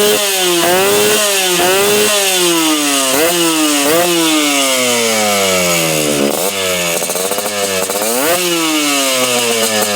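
Yamaha RX-King's single-cylinder two-stroke engine being revved through an aftermarket Lobster exhaust: quick throttle blips about once a second, then longer revs that climb and slowly fall back, with a dip and a bigger rev near the middle.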